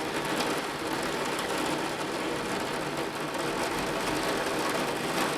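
Torrential rain pouring down, a steady dense hiss that holds at one level throughout.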